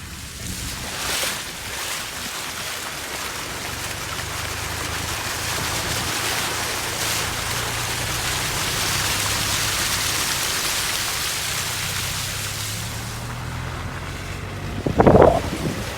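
Heavy rain falling, a steady hiss that grows louder towards the middle and eases off about thirteen seconds in. A short, loud burst comes near the end.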